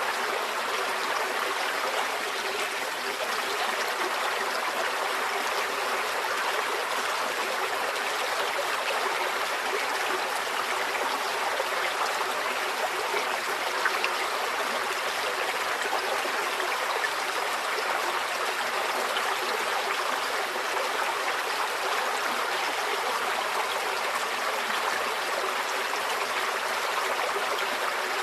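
Stream water flowing over stones, a steady rushing babble with no let-up.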